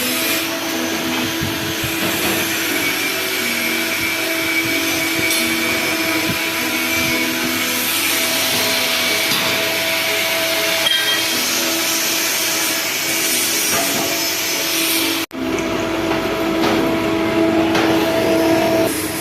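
Steady motor-driven machine noise with a held whine, cut off abruptly about fifteen seconds in and resuming straight after.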